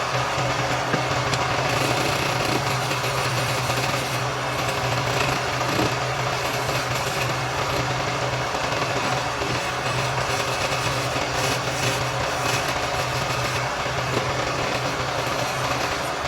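Wood lathe running: a steady motor hum under a rough, continuous scraping noise, coming in abruptly.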